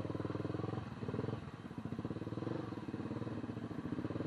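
Motorcycle engine running steadily while riding, a fast, even firing throb.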